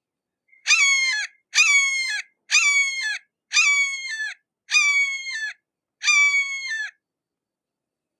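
Red-shouldered hawk calling a series of six loud 'kee-ah' calls, each a little under a second long and dropping in pitch at its end, spaced about a second apart.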